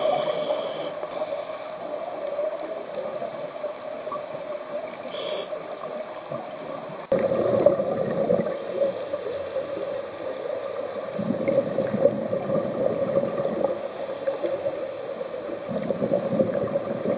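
Underwater sound picked up through a camera housing while scuba diving: a steady hum of water noise, with the gurgle of a diver's exhaled regulator bubbles swelling up every few seconds. The level steps up suddenly about seven seconds in.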